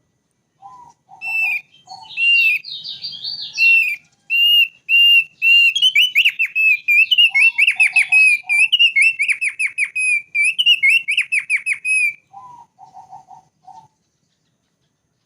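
Thick-billed white-eye singing a long, fast song of rapidly repeated clear whistled notes, some of them sliding. Short groups of a lower note come near the start, in the middle and just after the song stops.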